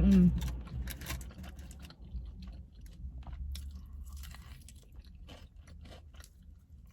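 Close-up chewing and crunching of crispy fried chicken wings, with wet mouth clicks and crackles. The bites come densest early on and thin out toward the end.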